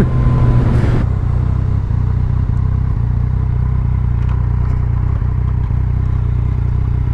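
2017 Yamaha MT-09's 847 cc three-cylinder engine through an Akrapovic carbon full exhaust system with the dB killer fitted. The sound drops about a second in and then settles into a steady, low, even engine note.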